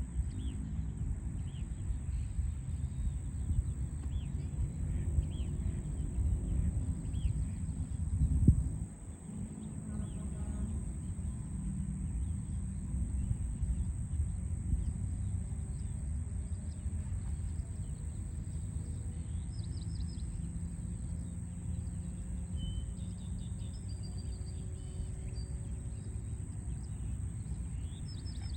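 Steady low city traffic rumble with faint bird chirps and calls above it, the birds clearer in the second half. There is a short louder swell about eight and a half seconds in.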